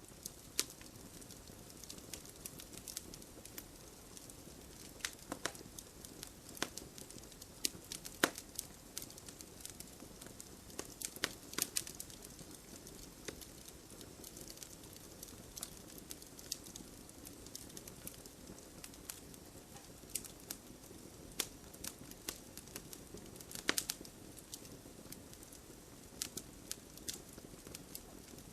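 Wood campfire burning: irregular sharp crackles and pops from the logs over a steady low rush of flame, with a few louder pops scattered through.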